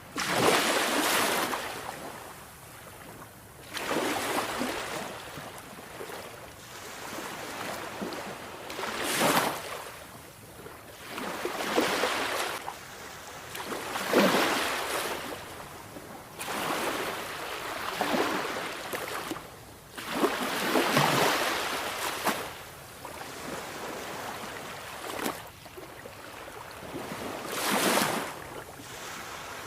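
Sea waves breaking one after another, each a rushing surge of surf that swells and falls away every few seconds.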